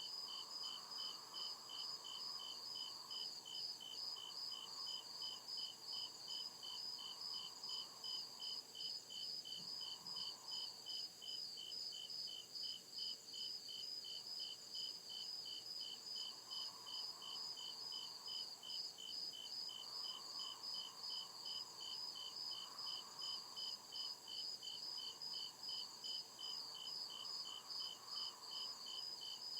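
Cricket chirping in a steady, even rhythm, about two to three high chirps a second.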